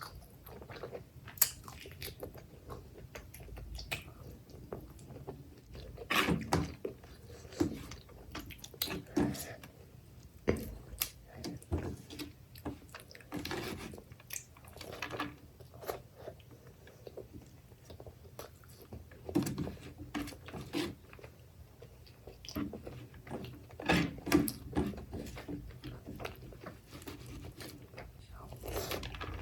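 A person chewing and biting big mouthfuls of mutton curry with rice and raw onion, with wet mouth clicks coming in irregular clusters.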